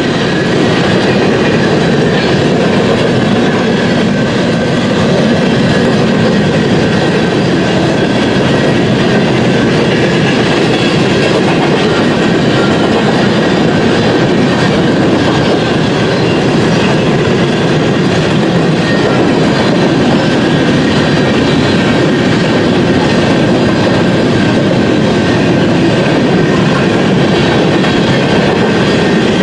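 BNSF freight train passing at speed, a steady loud rumble and clatter of the cars' wheels on the rails, with a faint high wheel squeal running under it.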